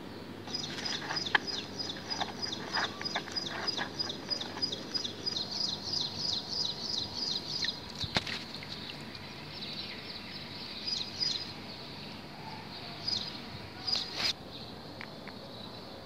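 A bird calling in a fast, even series of high chirps, about five a second, for several seconds, then only now and then, over a steady outdoor hiss.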